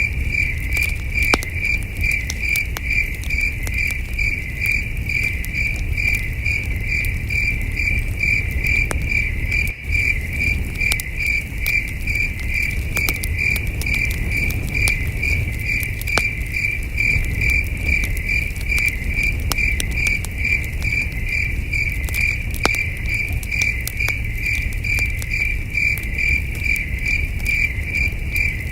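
Crickets chirping in a steady, evenly pulsed rhythm, over a campfire crackling with scattered sharp pops and a low rumble.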